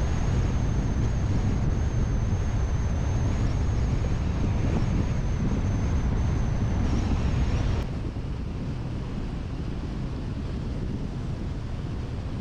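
Suzuki Jimny JA11 on the move: steady rumbling road and engine noise with wind on the microphone. The noise steps down a little about eight seconds in.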